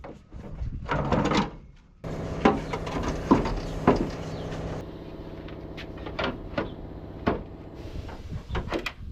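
Sharp knocks and clatter, several in a row, over a steady mechanical hum.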